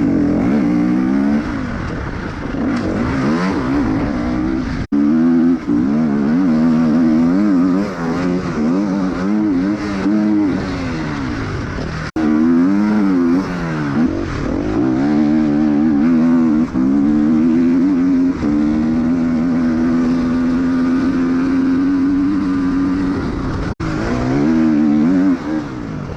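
Enduro motorcycle engine ridden flat out, revving up and dropping back again and again as the rider shifts and throttles. The sound cuts out abruptly for an instant three times.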